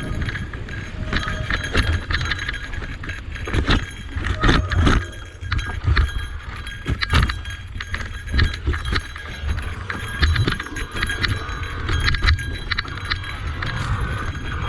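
Cube Reaction Hybrid EX 625 electric mountain bike rattling over rough trail: a constant low rumble broken by frequent irregular sharp knocks and clatter.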